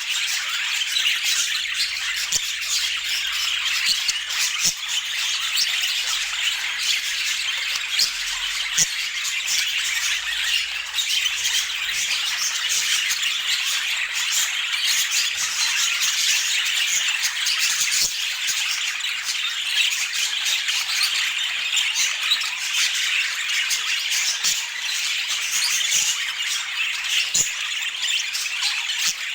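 Budgerigars chattering and squawking without a break, a dense stream of quick high chirps, with occasional faint clicks.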